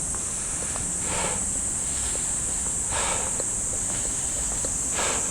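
Steady, high-pitched insect drone. Soft footsteps come about every two seconds.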